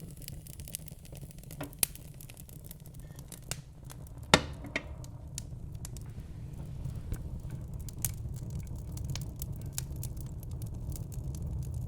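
Logs burning in a fireplace, crackling with scattered sharp pops over a steady low rumble; one loud pop a little over four seconds in.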